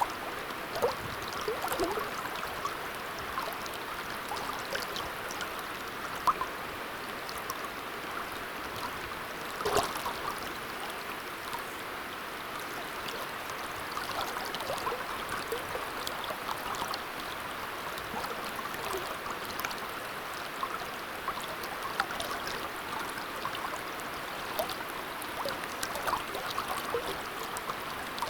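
Shallow river water running steadily: an even burble of flowing water with small gurgles and splashes scattered through it.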